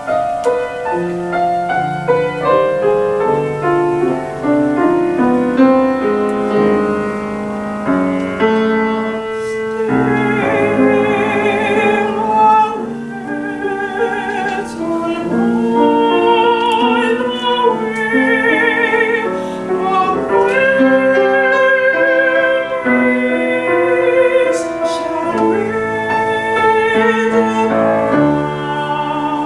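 Mezzo-soprano singing classical art song with piano accompaniment. The piano plays alone at first, and the voice enters about ten seconds in, singing with vibrato over the piano.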